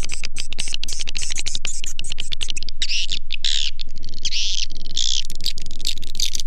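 Recorded swiftlet lure call: a fast rattle of clicking chirps, then, about two and a half seconds in, a string of separate high chirps. A steady low hum runs underneath.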